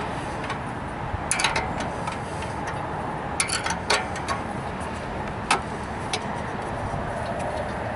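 A 9/16 inch wrench tightening the bolt on a steel headlight bracket, giving irregular metallic clicks and clinks over a steady background hum.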